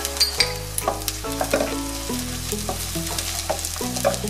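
Sliced onions, whole spices and dried red chillies sizzling in hot oil in a nonstick wok while a wooden spatula stirs them, clicking and scraping against the pan; this is the tempering stage, with the spices frying to release their aroma. Soft held tones of background music sit underneath.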